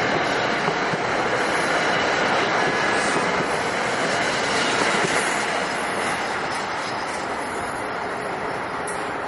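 NJ Transit commuter train of locomotive and Comet coaches rolling past, a steady loud rumble of wheels on rail that eases slightly in the last few seconds.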